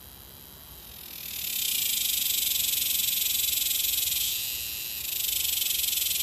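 Cicada call: a faint high-pitched buzz swells into a loud, shrill drone about a second in, sags briefly a little past the middle, rises again, and drops back near the end.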